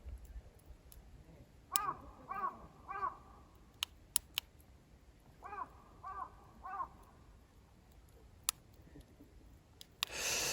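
A crow cawing in two series of three caws, a few seconds apart. A few sharp clicks in between, and a brief rush of noise near the end.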